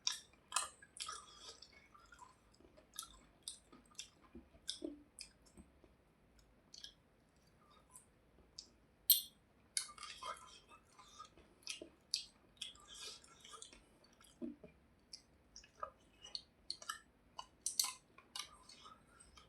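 Close-miked wet chewing of a mouthful of rice and fish, with irregular sharp lip smacks and mouth clicks, a few of them louder.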